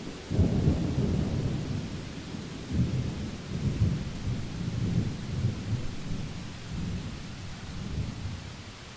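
Thunder during a rainstorm: a deep rolling rumble starts within the first half second, swells in several waves and dies away near the end, over a steady hiss of rain.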